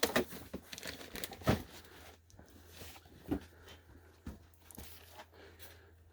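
Scattered rustling and crinkling with a few soft knocks, the loudest about a second and a half in and again a little over three seconds in, over a faint steady low hum that comes in after about a second and a half.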